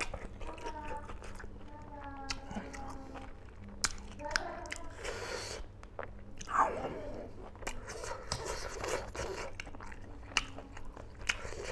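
Close-miked chewing and biting of smoked pork and rice, with wet mouth smacks and many small sharp clicks. A louder smack comes a little past halfway through.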